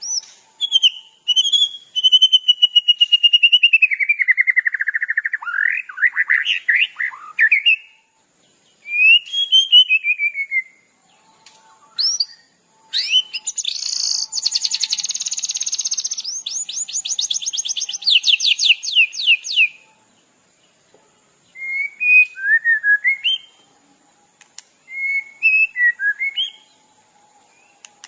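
Recorded songbird singing from a mixed 'masteran' tutor track used to train competition songbirds: a long falling trill, then a harsh chatter that runs into rapid sweeping notes, and short whistled chirps near the end.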